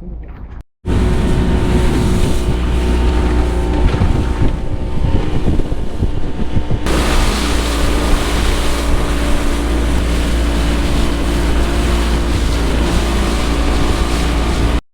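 A boat engine running steadily under way, with water rushing past and wind buffeting the microphone; it cuts in suddenly about a second in.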